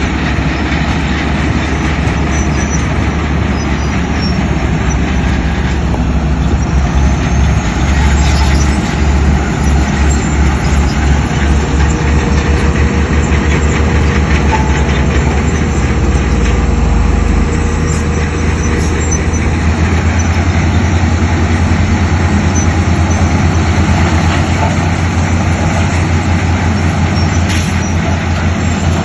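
Heavy diesel construction machinery running: a loud, steady, low engine drone whose pitch rises a little about two-thirds of the way through.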